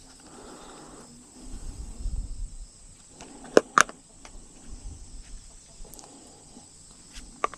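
Quiet outdoor background with a thin, steady high tone, a brief low rumble about two seconds in, and two sharp clicks about three and a half seconds in.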